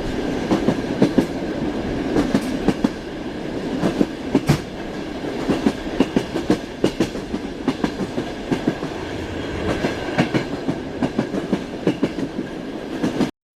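Train wheels knocking over the rail joints, heard from inside a passenger carriage: a steady rumble of the moving train with clusters of clickety-clack knocks. The sound cuts off suddenly near the end.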